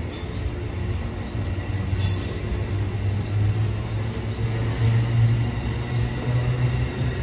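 Amtrak passenger train of Amfleet coaches rolling past, its wheels on the rails making a steady low rumble, with brief high squeaks near the start and about two seconds in.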